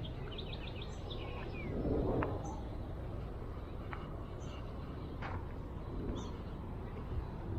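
Small birds chirping in quick short notes, then a few scattered high calls, over a steady low outdoor background rumble. There is a brief louder low swell about two seconds in.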